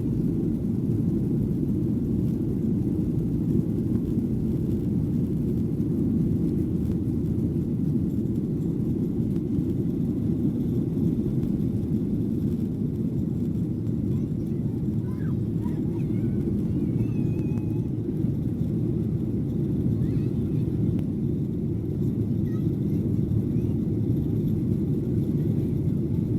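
Steady low rumble of a Boeing 737-800's CFM56 jet engines and rushing air, heard inside the passenger cabin in flight.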